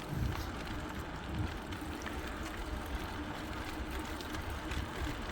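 Steady low wind rumble on a bike-mounted phone's microphone while cycling, with scattered faint ticks and rattles from the bike.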